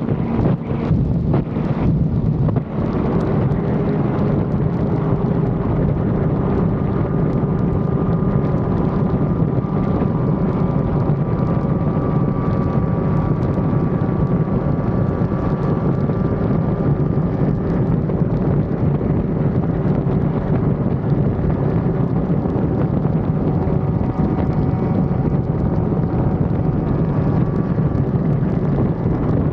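Yamaha R1 motorcycle's inline-four engine running at a steady note while riding, heavily overlaid by wind buffeting on the microphone.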